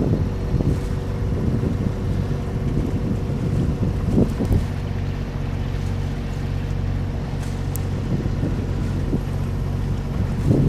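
Sailboat's auxiliary engine running steadily under way, with wind buffeting the microphone in gusts.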